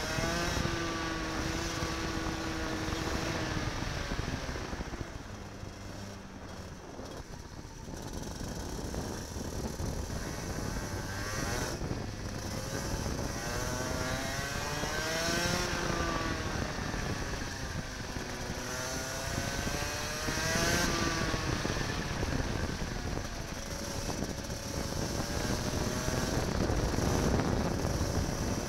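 Kart engine heard from onboard, revving up and down as the kart laps: the pitch climbs under acceleration and drops off into corners several times, over a steady noisy hiss.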